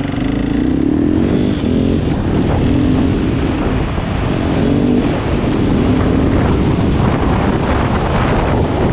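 KTM 500 EXC single-cylinder four-stroke dirt bike engine running under way, its pitch climbing and then breaking several times as it pulls through the gears.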